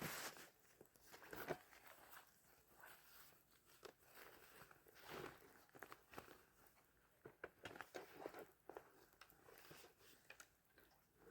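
Faint, irregular crunching and rustling, a few soft crunches at a time with short gaps between.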